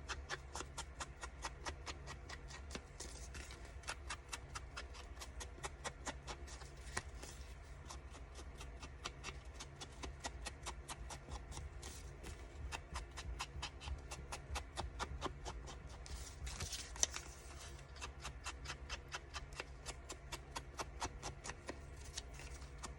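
A clock ticking fast and evenly, about five ticks a second, over a low steady hum.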